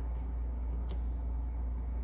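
Steady low hum of background noise, with a single faint click about a second in.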